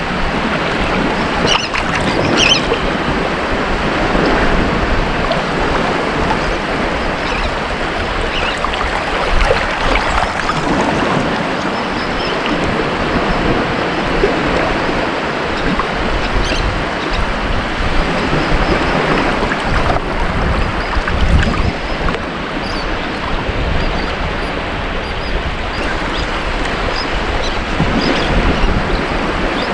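Ocean surf: waves breaking and washing on a beach, a continuous rushing wash that swells and eases every few seconds.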